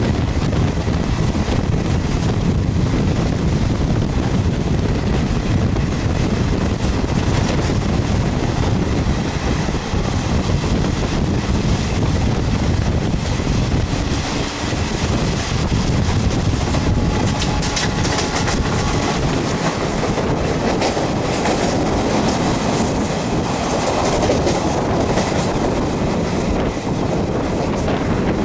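Running noise of a moving passenger train heard from the coach window: a steady rumble of wheels on the rails with wind buffeting. A run of sharp clicks and rattles comes about two-thirds of the way through.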